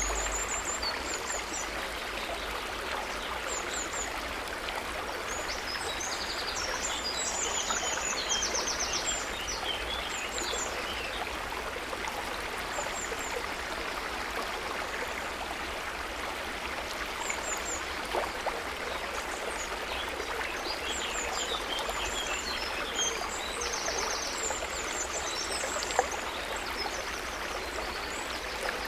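Running water of a river flowing steadily, with small birds chirping and giving short trills high above it now and then.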